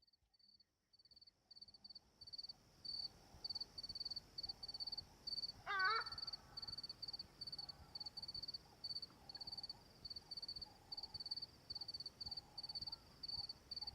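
Crickets chirping steadily and faintly, about two to three high chirps a second, fading in over the first few seconds. A single short call that slides up and down in pitch cuts in about six seconds in.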